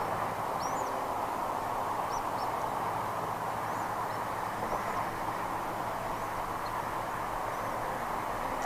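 Steady outdoor background rush with a few faint, short, high-pitched bird chirps scattered through it.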